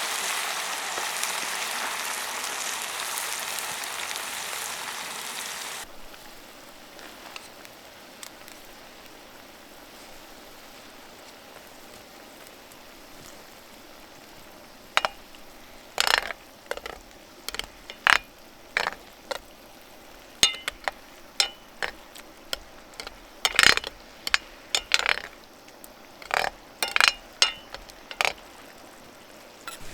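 A loud, dense hiss that cuts off suddenly about six seconds in, then a quiet stretch. From about halfway, a run of sharp clinks and knocks, some with a short ring, typical of cooking utensils handled over a camp fire.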